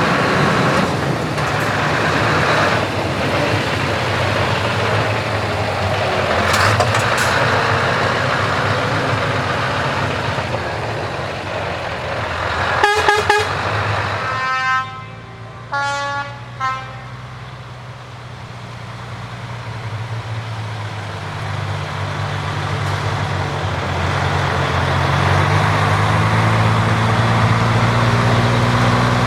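Heavy truck engines and exhausts running, with several short air-horn blasts about halfway through. After a lull, a truck engine's low rumble builds toward the end.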